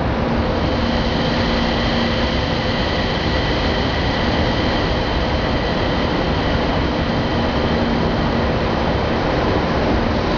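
Thalys TGV high-speed train rolling slowly in along the platform: a steady rumble with a few held whining tones.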